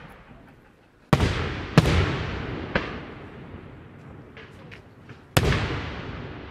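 Daytime fireworks: aerial shells bursting with sharp bangs, two close together about a second in, a smaller one shortly after, and another loud one near the end, each trailing off in a long rolling echo. A few fainter pops sound in between.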